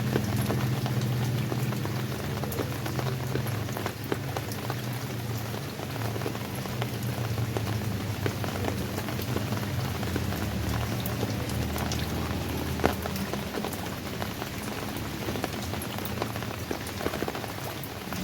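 Steady rain falling, with many individual drops pattering and tapping on a surface, over a low steady hum. One drop lands louder than the rest a little after halfway.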